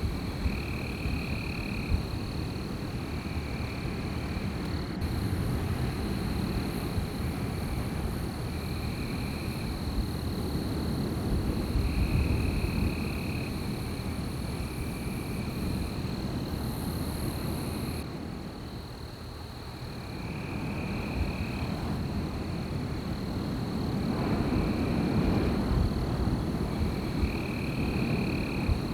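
Wind blowing in gusts, a low rumbling that eases off for a few seconds past the middle and then builds again. Over it, short high calls repeat every second or two above a steady high drone, typical of night creatures by water.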